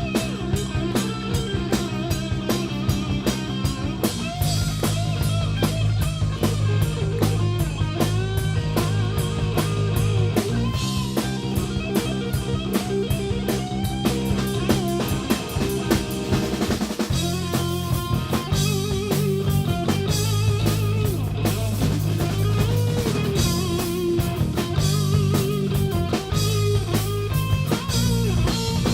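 Rock band playing live, an instrumental passage with drum kit, bass and electric guitar and no vocals.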